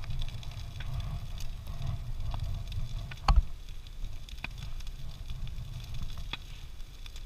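Large wood-pile bonfire burning, a low steady rumble with scattered crackles and one loud pop about three seconds in.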